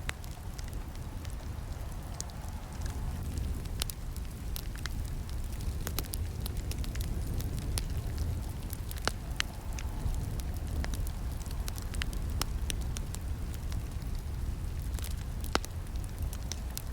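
Campfire burning with a steady low rumble of flames and constant irregular crackling, with two louder snaps, one about halfway through and one near the end.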